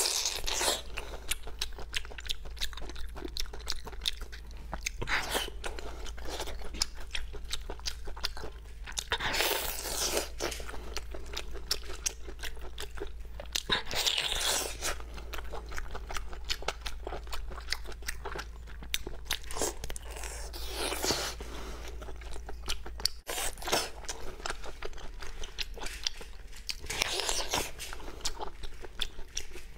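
Close-miked eating of braised spicy pork large intestine: a steady run of wet biting and chewing clicks, with louder bursts every few seconds.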